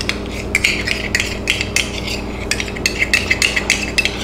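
A metal spoon clinking and scraping against a glass mixing bowl, a quick irregular series of sharp clinks as honey is worked off the spoon into the marinade.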